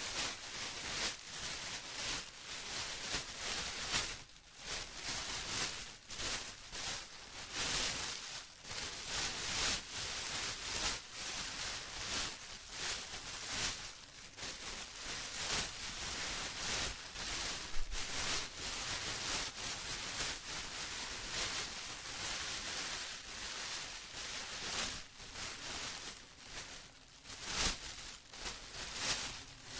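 Plastic being rustled and crinkled, a continuous irregular crackle of many short crisp bursts with a few brief lulls.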